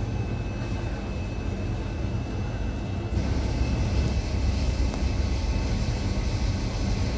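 Running noise inside an IZBAN electric commuter train carriage: a steady low rumble with a faint hiss, growing louder and hissier about three seconds in.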